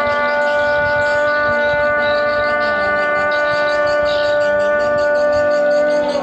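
A loud, long held tone with many overtones that stays at one pitch and falls away at the end, over faint rapid high chirping of swiftlets.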